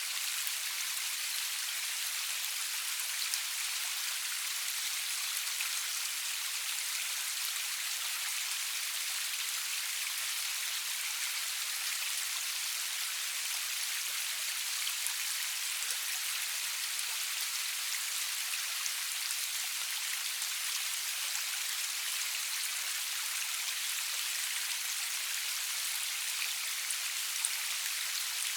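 Steady rain falling, an even high hiss with scattered faint drop ticks and no thunder.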